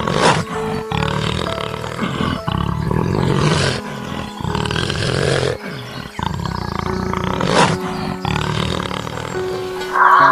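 Lions roaring and growling in a string of short clips cut one after another, each breaking off abruptly, with soft background music underneath.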